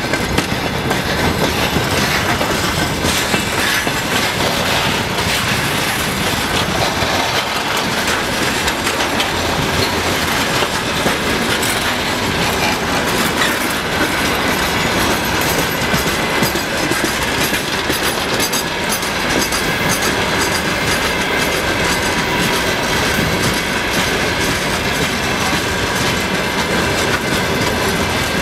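Freight train rolling past, its wagon wheels clacking over the rail joints in a steady loud rumble, with a thin steady high whine in the second half.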